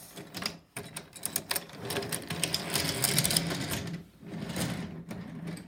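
Toy train's small electric motor running with a steady hum and a fast clicking rattle as it rolls along the track; the sound dips briefly twice.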